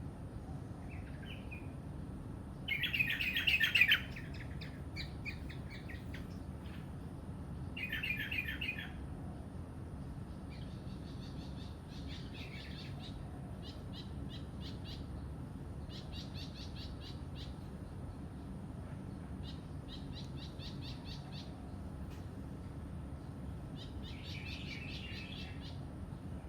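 Songbirds singing: short phrases of rapid high chirps, loudest about three seconds in and again about eight seconds in, followed by several quieter trilled phrases, over a steady low background hum.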